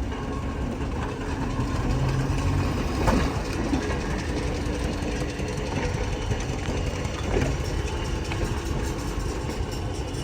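Locomotive engine running steadily at a low pitch.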